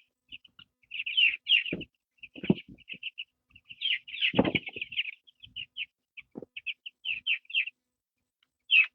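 Chickens peeping in rapid strings of short, high calls, with a few dull thumps in between.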